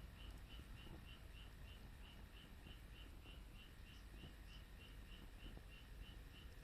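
Faint high chirp repeated evenly, about three and a half times a second, over a low background rumble; otherwise near silence.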